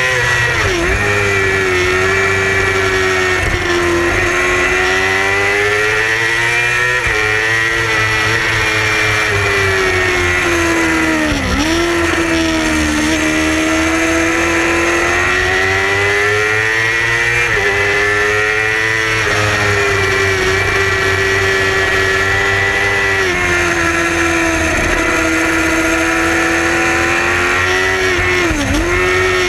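Yamaha R6 racing motorcycle's inline-four engine running hard at high revs, the pitch climbing under acceleration and dropping suddenly at gear changes, with sharp brief dips about a second in, midway and near the end.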